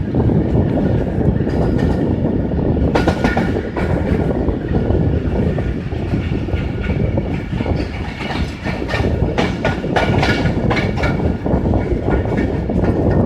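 Fareed Express passenger train running along the track, its wheels clattering over the rail joints in a steady rumble. From about three seconds in until near the end, high steady metallic tones sound over the clatter.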